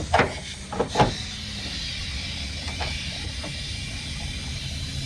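Two sharp metallic knocks about a second apart near the start, typical of hand tools working on the truck's radiator fittings under the hood. They sit over a steady low hum and a faint hiss, with one lighter tick later.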